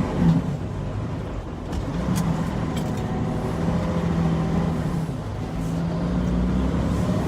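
Semi truck's diesel engine and road noise while driving, a steady low drone with a held engine tone.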